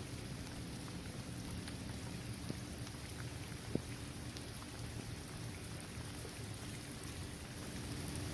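Steady rain falling on a basketball court, trees and grass, with scattered individual drops ticking and one sharper drop about four seconds in.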